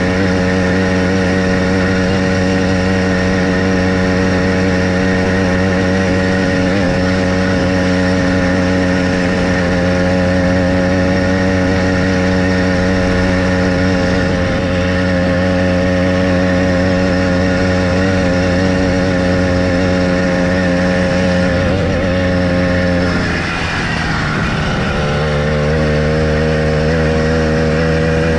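Small motorized bicycle engine running steadily at speed. Near the end its revs fall off sharply, with a brief dip in loudness, then it settles back to a steady note a little lower than before.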